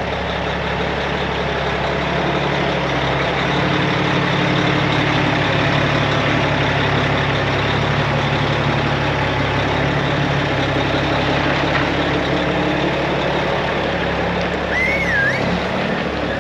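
Large truck engine running steadily, with a low hum that swells slightly about four seconds in. A brief high warbling chirp sounds near the end.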